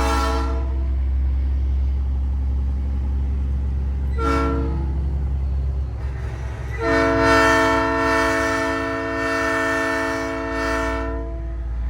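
Nathan Airchime P3 train horn on a big rig, sounding a chord. The end of one blast fades out at the start, a short toot comes about four seconds in, and a long blast of about four and a half seconds follows. A steady low engine drone runs underneath.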